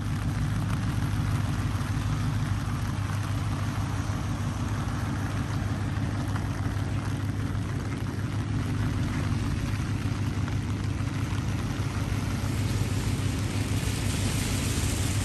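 Steady rain falling, with a low, steady hum underneath.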